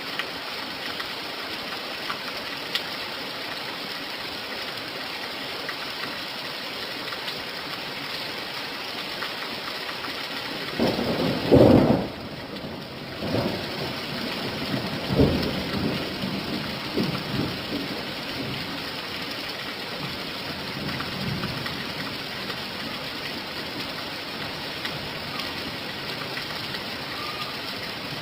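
Steady rain falling, with a loud burst of thunder near the middle and several seconds of uneven rumbling after it.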